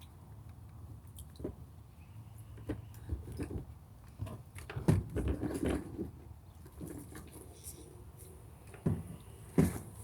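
Handling noises from vacuum parts being worked by hand: scattered clicks and knocks, with a busier stretch of rubbing and knocking about five seconds in.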